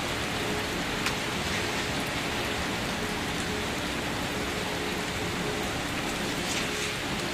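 Steady rain falling, with a few single drops striking close by, one about a second in and another near the end.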